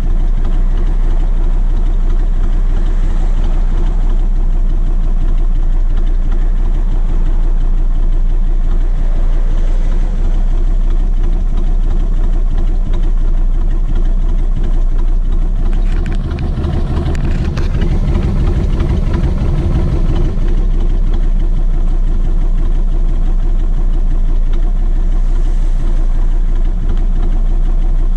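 Kawasaki VN1600 Mean Streak's V-twin engine running steadily. About halfway through, the sound changes for a few seconds, growing fuller and brighter before settling back.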